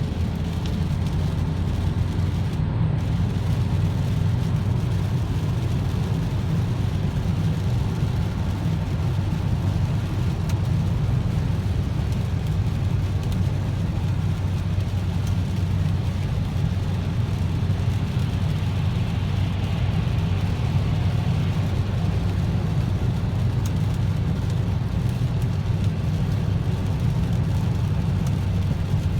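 Steady in-cabin road noise of a Renault Safrane 2.5i 20V, its five-cylinder engine cruising at motorway speed: an even low drone with a hiss of tyres on the wet road above it.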